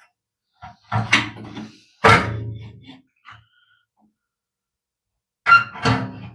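A few metallic clunks with short ringing tails, about four knocks spaced irregularly. The sound is metal parts of a gas water heater's burner and pilot assembly being worked back into the combustion chamber.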